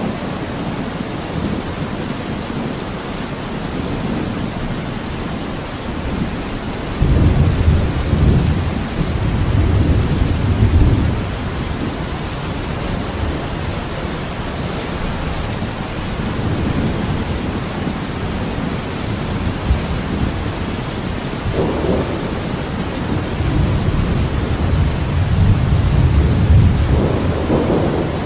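Steady heavy rain with rolling thunder. A deep rumble swells about seven seconds in and lasts several seconds, and another builds through the second half.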